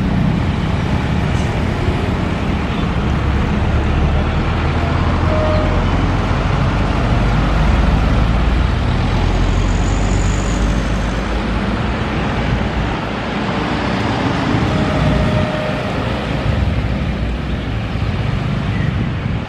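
Steady low rumble of a passenger train's coaches rolling away along the track, mixed with road traffic; the low rumble eases somewhat a little past halfway.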